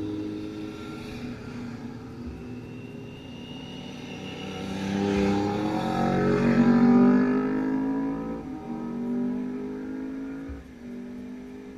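Motorcycle engine sound at a race track, its pitch rising and falling, growing louder to a peak about two-thirds of the way through and then fading.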